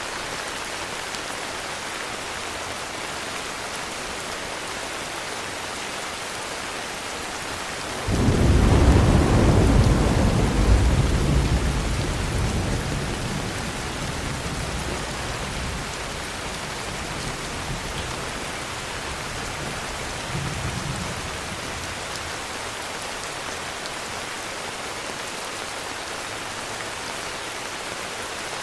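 Steady heavy rain with a clap of thunder about eight seconds in that starts suddenly, rumbles low and loud, and fades out over several seconds; a fainter rumble follows near the twenty-second mark.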